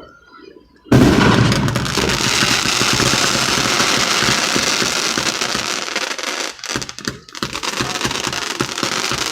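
Fireworks crackling: a dense, continuous spray of rapid pops that starts abruptly about a second in and keeps going, with a couple of brief lulls near the end.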